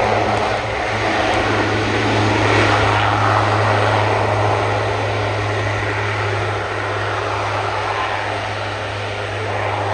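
Military display aircraft in flight: a loud, steady engine drone over a low hum, easing slightly in the second half.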